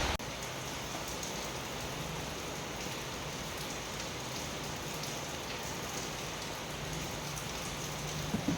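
Steady hissing noise with a faint low hum; a few sharp knocks begin near the end.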